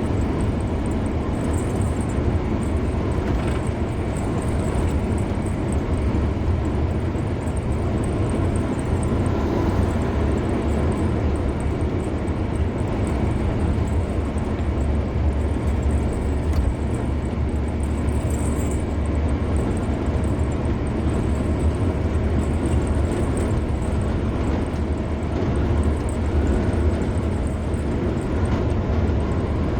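A car driving on a highway: a steady low rumble of tyres on the road and the car running, with no change in pace.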